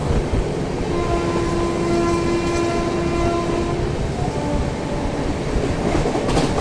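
Passenger train running at speed: the rumble and rattle of the coach on the track, with a train horn sounding one long blast from about a second in until about four seconds, then a shorter blast.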